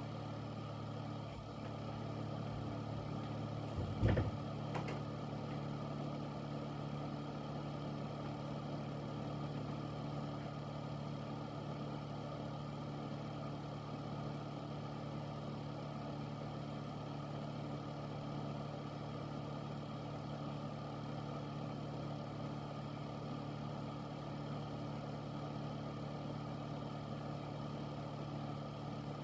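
Air filter's fan running with a steady hum and rush of air. A brief knock about four seconds in.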